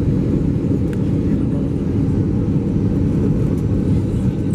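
Cabin noise aboard an Airbus A320 heard from a passenger seat: a loud, steady low rumble from the engines and airframe.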